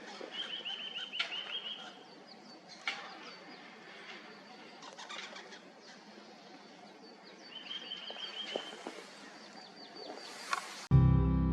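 Small forest songbirds calling: a rapid trill of short notes near the start and again about eight seconds in, with thin high call notes between. Acoustic guitar music comes in just before the end.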